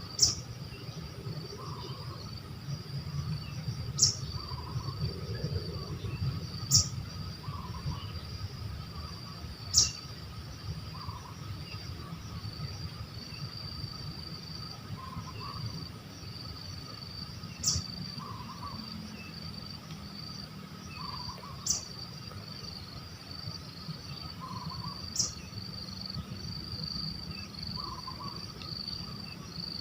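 Steady high-pitched chirring of insects such as crickets, with a soft bird call repeating every few seconds. Seven sharp clicks, the loudest sounds, are spread through it.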